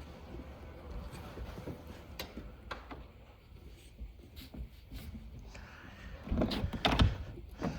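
Scattered light clicks and knocks, with a few louder thumps about six to seven seconds in.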